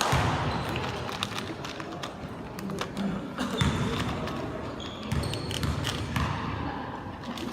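Basketball being dribbled on a gym court during a game: repeated thuds of the ball on the floor, with a few short high squeaks and low crowd murmur.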